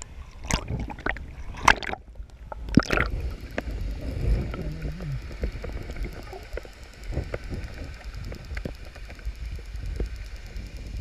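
Water sloshing and gurgling close to the microphone, with sharp knocks in the first three seconds, then a steady muffled wash of water.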